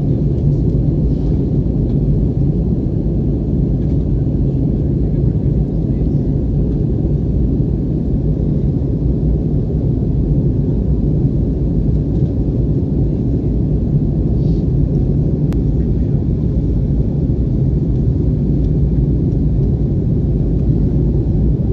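Steady low rumble of an Airbus airliner's cabin noise in flight: engine and airflow noise heard from inside the cabin. A single faint click comes about fifteen seconds in.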